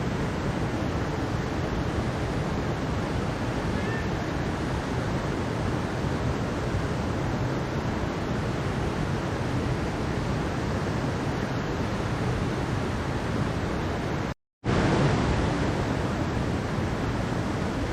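Mountain stream water rushing steadily, an even hiss of flowing water. It drops out to silence for a split second about fourteen and a half seconds in, then picks up again at the same level.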